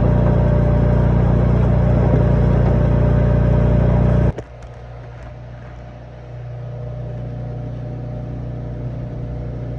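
An engine running steadily with a strong low hum. About four seconds in the sound drops abruptly to a much quieter, steady engine hum, which picks up slightly a couple of seconds later.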